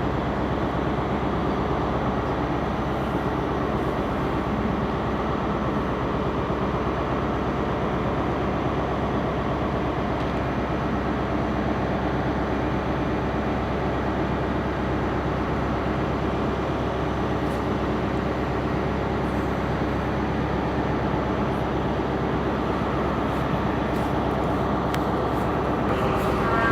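Diesel train running steadily at the station, a constant mechanical drone with no rise or fall. A higher tone comes in right at the end.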